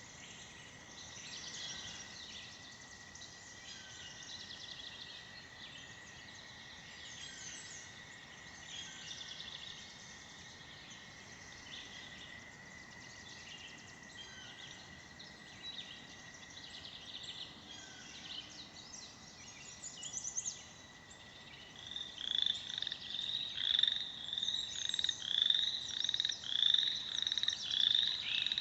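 An American toad's long, steady trill, with birds chirping over it, stops about three-quarters of the way through. Then a loud run of grey treefrog calls starts, repeated about one and a half times a second.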